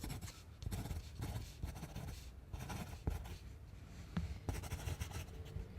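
Pencil writing on a paper form: a run of irregular scratchy strokes filling in an entry.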